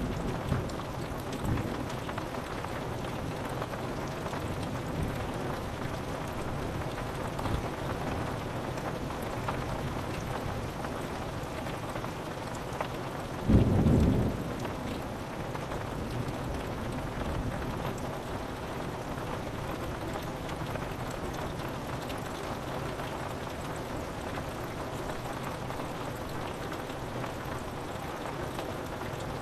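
Steady rain falling on a window, with a short, loud, deep clap of thunder about halfway through.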